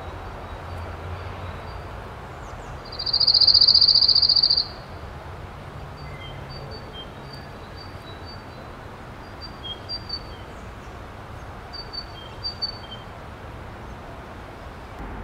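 A small bird's high, even trill about three seconds in, lasting almost two seconds and the loudest sound, followed by scattered short high chirps, over a steady low rumble.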